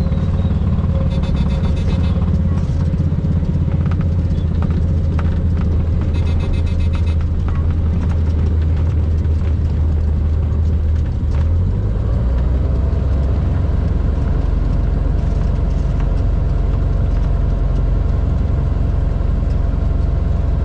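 Cessna 182R's six-cylinder Continental piston engine and propeller running steadily, its pitch shifting about twelve seconds in.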